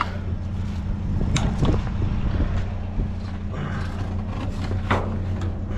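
A vehicle engine idling with a steady low hum, under a few sharp knocks and clatters of scrap being worked loose in a dumpster with a grabber.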